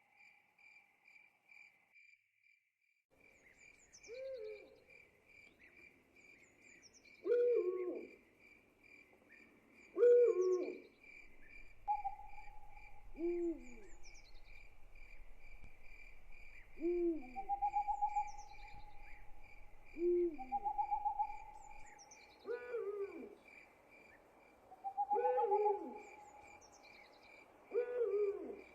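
Owl hooting, a short low call repeated every two to three seconds starting a few seconds in, over crickets chirping steadily.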